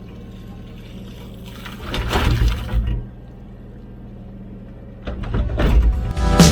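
Komatsu PC16 mini excavator's diesel engine running steadily. About two seconds in there is a brief, louder burst of wet scraping and splashing as the bucket works in the waterlogged hole at the leak. Louder, busier sound starts near the end.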